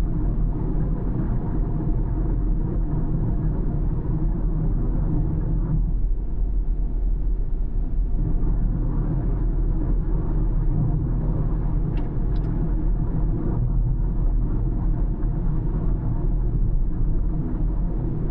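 Car driving along a road: a steady low rumble of engine and tyre noise, easing for a moment about six seconds in. A brief faint high chirp is heard about twelve seconds in.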